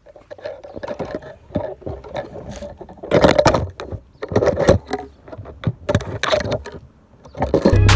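A few short rustling, scraping handling noises at irregular intervals, then music starts just before the end.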